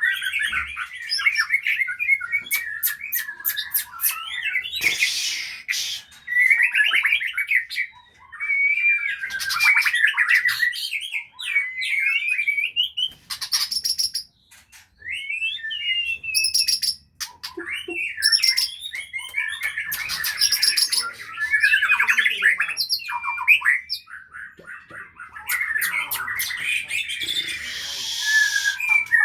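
White-rumped shama (murai batu) singing a long, varied song of quick whistled phrases mixed with sharp chattering notes, broken by a few short pauses.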